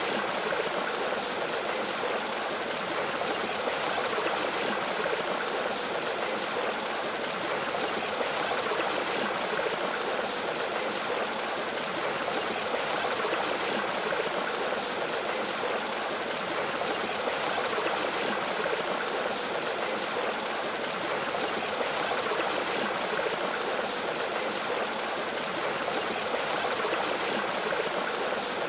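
A mountain stream flowing over rocks with a small waterfall: steady rushing and gurgling water, even and unchanging throughout.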